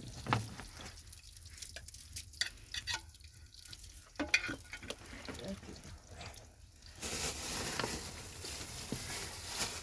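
Scattered small taps and scrapes of cooking, then a steady sizzling hiss from about seven seconds in, as food fries in a pan.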